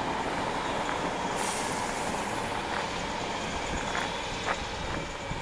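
Class 313 electric multiple unit running past at the platform: a steady rush of wheels on rail that turns brighter and hissier about a second in, with two sharp clicks near the end.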